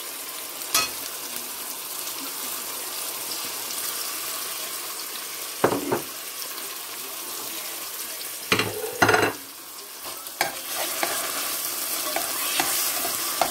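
Onions and tomato sauce frying in oil in an aluminium saucepan, a steady sizzle, with a metal spoon scraping and knocking against the pot as the tomato is stirred in. The knocks come now and then, then more often in the last few seconds.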